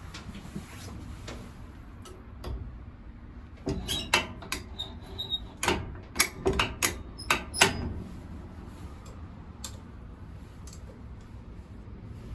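A cluster of sharp clicks and knocks, about a dozen over some four seconds in the middle, over a steady background hiss.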